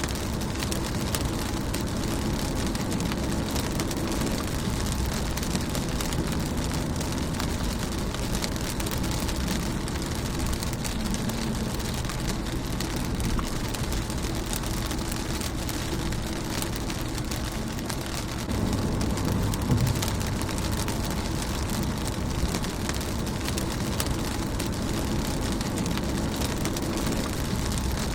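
Steady rain falling on a car's windshield, a continuous hiss dotted with the ticks of single drops striking. A low rumble grows louder about two-thirds of the way through.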